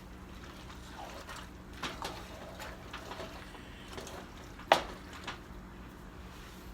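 Kitchen cookware handling over a steady low hum: soft scrapes and small knocks, then one sharp clink a little past halfway, typical of a utensil striking a pan.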